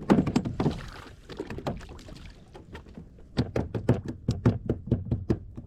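A fish thrashing against a plastic kayak: rapid knocking and slapping in two bouts, one in the first second and a half and a faster, even run of about seven slaps a second from about three and a half seconds in.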